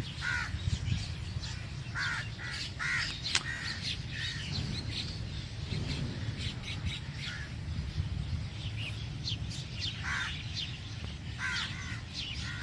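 Crows cawing in short, separate calls, several in a cluster a couple of seconds in and more near the end, over a steady low rumble.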